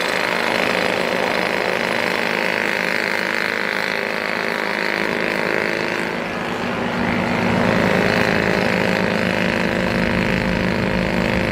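Steady engine drone, with a deeper engine rumble growing louder about seven seconds in.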